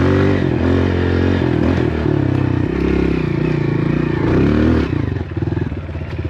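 Dirt bike engine running under way, its pitch rising and falling as the throttle is worked. About five seconds in, the throttle closes and the engine drops to a lower, uneven note.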